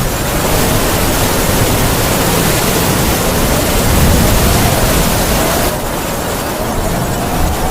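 Heavy rain falling with howling wind: a dense, steady hiss with a faint wavering whistle under it. The hiss thins abruptly about six seconds in.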